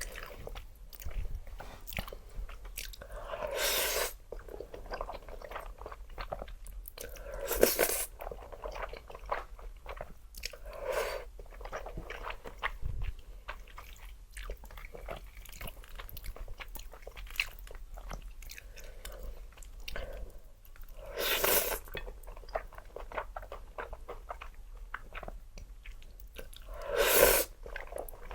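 Close-miked eating: steady chewing with many small crackly crunches, and about five louder bites spread through.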